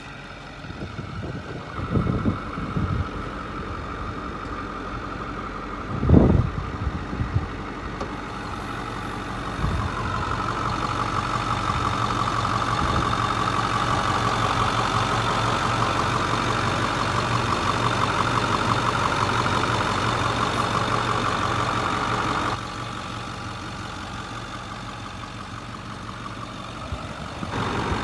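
Ford F450 truck engine idling, with two knocks in the first several seconds, the second one louder. From about ten seconds in a louder steady whine rides over the idle, then cuts off suddenly a few seconds before the end.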